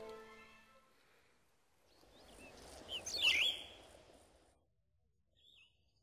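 A small bird chirping in quick high calls against outdoor background noise, loudest around the middle, with one faint chirp near the end. The last held notes of a mallet-instrument tune fade out at the start.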